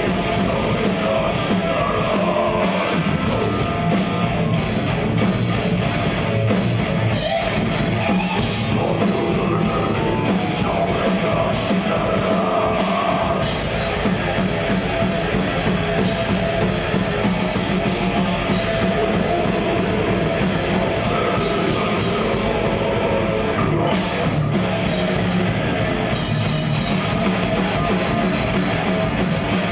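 Death metal band playing live: distorted electric guitars over a drum kit, dense and loud.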